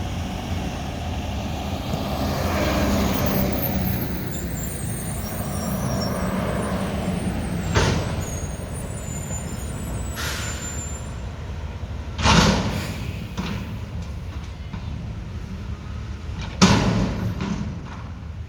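Diesel engine of a Mack front-loader garbage truck with a McNeilus body running steadily, with three sharp air-brake hisses spread through.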